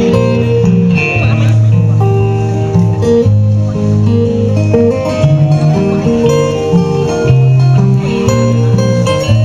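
Live acoustic music: a strummed acoustic guitar carrying a song, with a voice singing over it.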